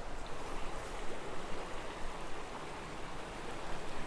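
Water of a small creek running steadily, an even rushing hiss with no distinct splashes or knocks.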